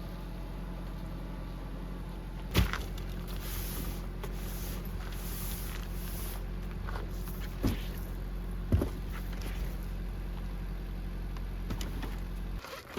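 A steady low mechanical hum, like an idling car engine, with three sharp knocks; the hum cuts off suddenly near the end.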